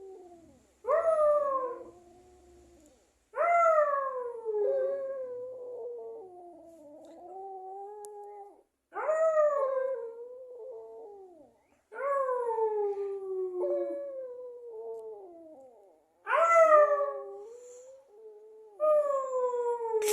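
Small pet dog howling: about six long howls a few seconds apart, each starting high and sliding down in pitch, with quieter wavering howls between them.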